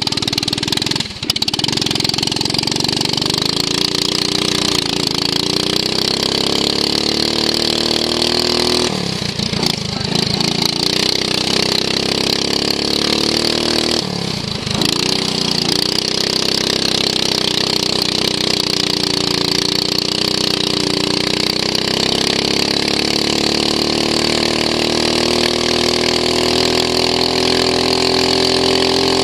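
Racing lawn mower's engine at full race pace, heard from onboard. It runs hard throughout, with its pitch dropping twice (about nine and fourteen seconds in) and then climbing back up, rising steadily toward the end.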